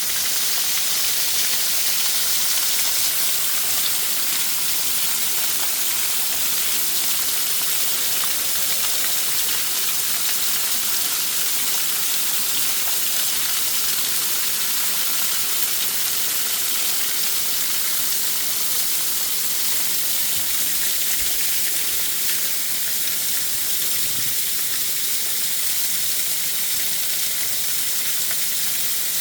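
Waterfall rushing: a loud, steady hiss of falling water that stays even throughout.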